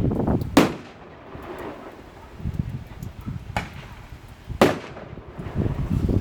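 Fireworks and bangers going off: three sharp bangs, the loudest about four and a half seconds in, over a low rumble that comes and goes.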